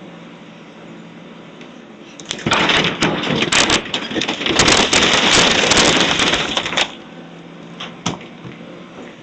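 Demolition debris crashing and breaking apart for about four seconds, with dense cracking and splintering, then a couple of single cracks near the end. Underneath, a steady low machine hum.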